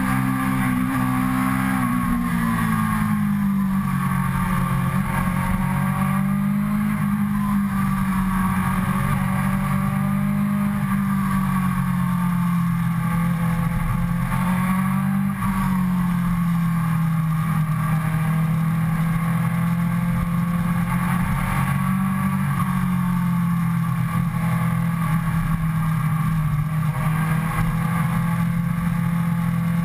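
Suzuki GSX-R sport bike's inline-four engine running under way at moderate revs, heard from onboard. Its note drops a couple of seconds in, then rises and falls gently with the throttle as it cruises.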